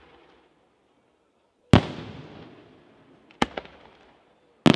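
Aerial firework shells bursting: one sharp bang about two seconds in with a long echoing tail, a smaller cluster of cracks about a second and a half later, then a rapid run of bangs near the end.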